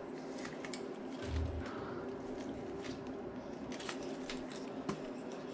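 Close-up eating sounds: chewing with scattered wet mouth clicks while fingers pick at a shrimp taco in its foil wrapper, with one soft low thump a little over a second in. A steady low hum runs underneath.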